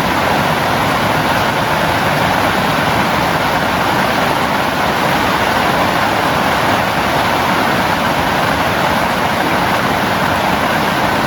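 Heavy rain pouring steadily, an even hiss without let-up.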